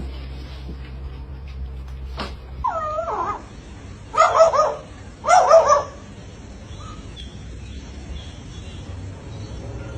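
A dog vocalising: a short whine about three seconds in, then two loud yelps about a second apart.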